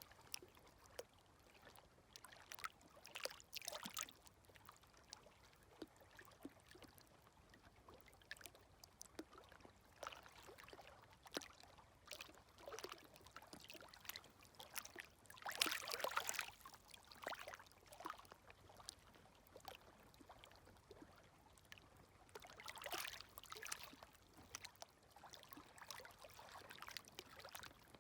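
Small, gentle waves lapping at the water's edge: quiet, irregular splashes and trickles, with slightly bigger wash-ins a few seconds in, around the middle, and again later.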